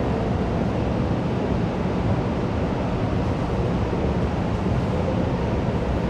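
Steady hubbub of a crowded school canteen: many indistinct voices blending into an even wash of noise.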